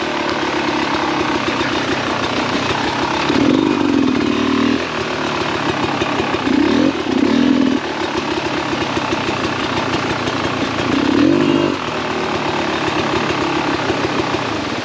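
Beta 300RR two-stroke dirt bike engine idling, with a few short blips of the throttle, each briefly louder and rising in pitch.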